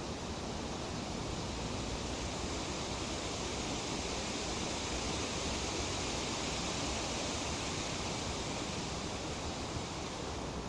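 Breeze rustling through tree leaves, a steady hiss that swells a little in the middle and eases slightly near the end.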